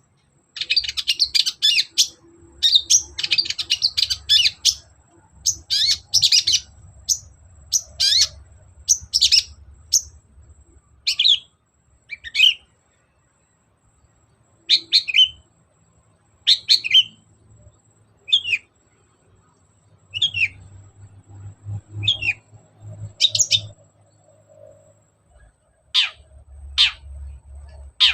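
Long-tailed shrike (cendet) singing in loud, scratchy, rapid chattering phrases for the first few seconds. It then switches to short separate high calls about once a second, with a few sharp falling calls near the end.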